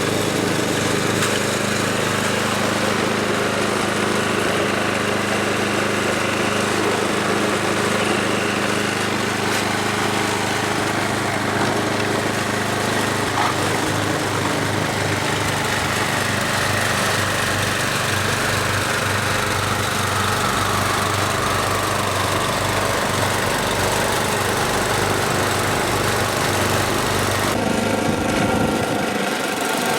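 Snowblower's small engine running steadily under load, its sound changing abruptly near the end.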